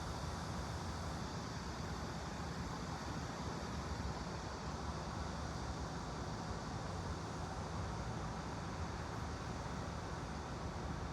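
Steady, even background noise with a low hum, unchanging throughout: an ambient white-noise bed.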